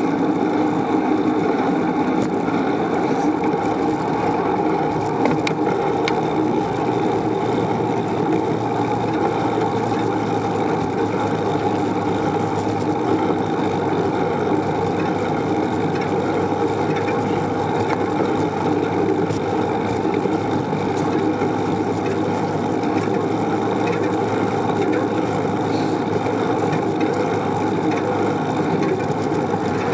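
Steady rushing noise of riding a bicycle: wind on the microphone, with tyre and road noise, at an even level throughout.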